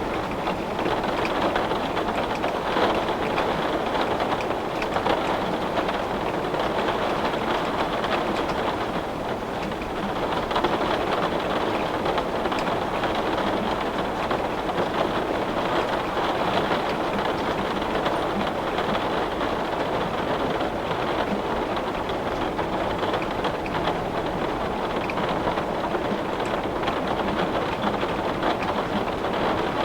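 Heavy rain falling on window glass: a dense, steady hiss of countless drops, easing slightly for a moment about nine seconds in.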